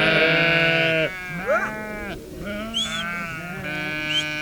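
A flock of sheep bleating, several calls overlapping. A long loud bleat ends about a second in, and more bleats follow through the rest.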